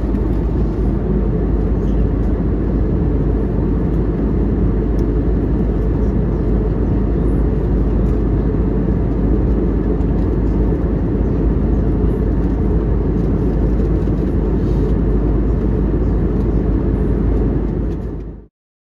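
Airliner cabin noise in flight: a steady, deep rumble of the engines and rushing air. It cuts off suddenly near the end.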